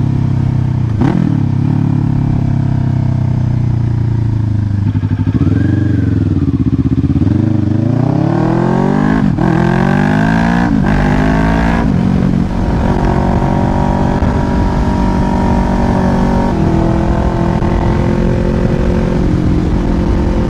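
Kawasaki Ninja 500 parallel-twin engine running while riding: the revs dip and recover, then climb in rising sweeps through several quick upshifts near the middle, then hold steady at a cruise.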